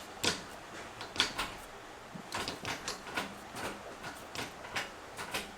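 A Suzuki Jimny JA22's manual gear lever being worked through the gears, giving about a dozen light, irregular clicks and knocks.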